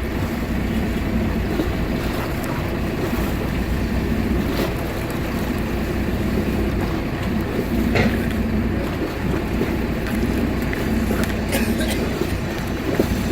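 Boat engine running steadily under wind and water noise, with a few sharp knocks scattered through it.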